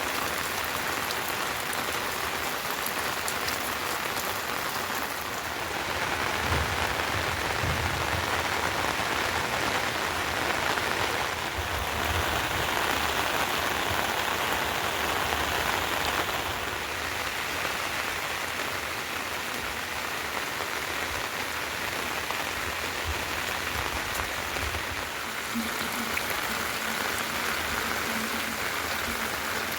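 Steady rain falling: a continuous, even hiss that swells a little in the middle.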